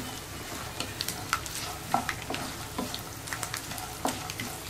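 Peanuts, dried red chillies and curry leaves sizzling steadily in hot oil in a nonstick kadai while a spatula stirs them. The spatula makes repeated, irregular scrapes and clacks against the pan and the nuts.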